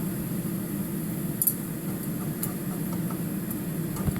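Egg noodles frying in hot oil in a pan: a steady sizzle with a few sharp crackles, over a low steady hum.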